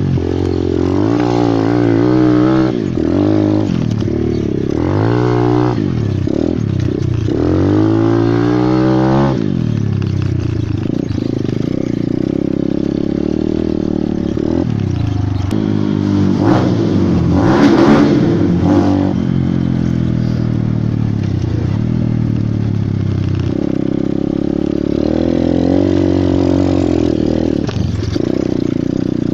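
Pit bike engine running hard, its pitch rising and falling again and again with throttle and gear changes.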